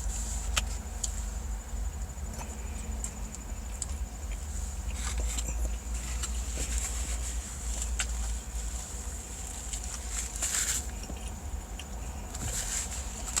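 Scattered small clicks and light clinks over a steady low hum.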